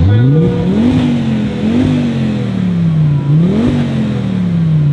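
Sports car engine revved hard while stationary: the revs climb sharply, then the engine is blipped three times, with the revs sinking slowly back between blips and after the last one.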